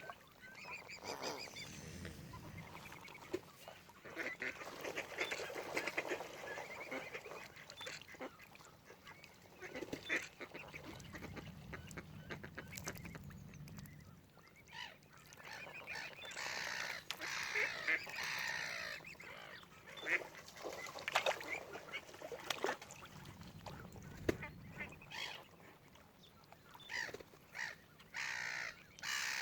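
Waterfowl calling repeatedly, many overlapping calls, with the busiest stretches past the middle and again near the end.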